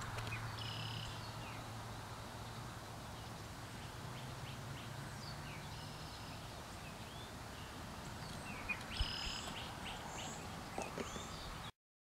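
Birds calling over outdoor background noise. A similar short, high call repeats three times, about every four seconds, among a few scattered chirps. The sound cuts off suddenly near the end.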